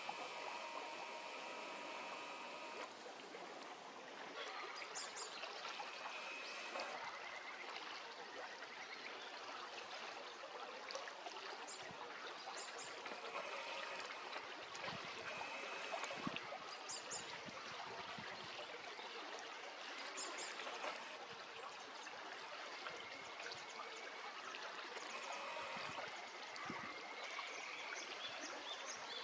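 Steady rush of flowing stream water, with faint short high bird chirps scattered through it.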